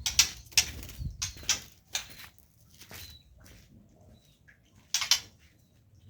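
Irregular short scraping and rattling strokes from cleaning a songbird cage. There are about a dozen in quick succession, then a lull, and one more burst about five seconds in.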